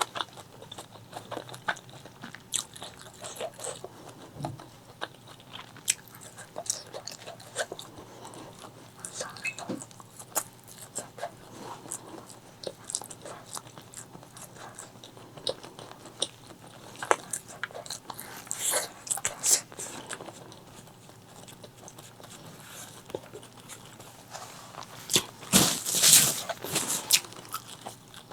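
Close-miked eating of spicy chicken liver, gizzard and white rice: biting and chewing with many short, sharp mouth clicks and crunches, and a louder run of crunches near the end.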